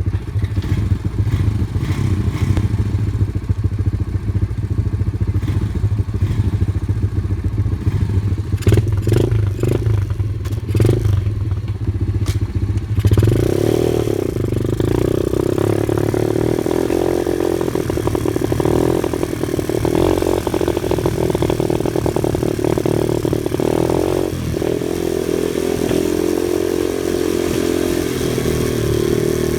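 Vehicle engine running on an off-road drive: a low, steady note with a few knocks and rattles, changing about thirteen seconds in to a higher, busier note as it pulls along.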